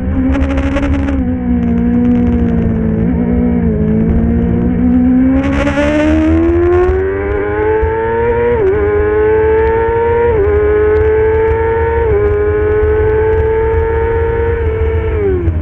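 Middleweight superbike engine running hard under racing load. Its pitch sags for the first few seconds, then climbs, with quick upshift drops about nine, ten and a half and twelve seconds in. It holds high and steady, then drops sharply near the end as the rider shuts off and downshifts.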